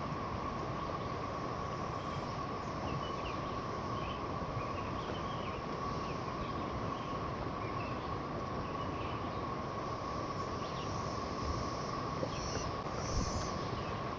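Steady, even drone of a cicada chorus, over the continuous rush of a nearby river, with scattered faint bird chirps.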